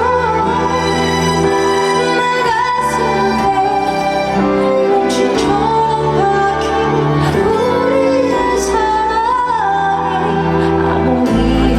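A woman singing a ballad live with band accompaniment over a concert sound system, her voice gliding and bending in pitch over sustained chords and bass.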